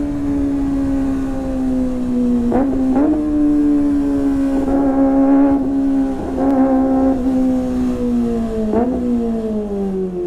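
Kawasaki ZX-25R 250 cc inline-four running high in its revs through a Sportisi Motorsport SRX aftermarket exhaust. It gives a loud, high-pitched note that slowly drops in pitch, with several brief jolts in pitch along the way.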